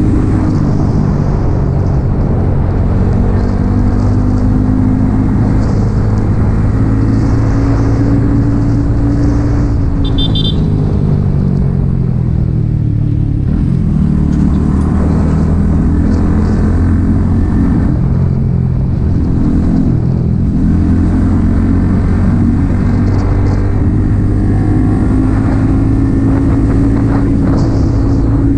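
Yamaha XSR 155's single-cylinder engine through an aftermarket M4 exhaust, running under way, its pitch falling and rising with throttle and gear changes, with a dip around the middle.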